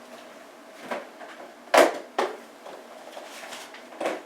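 Air traffic control radio feed between transmissions: a faint steady hiss with a thin hum. Short sharp clicks and crackles come about a second in, twice near the two-second mark, and once more near the end.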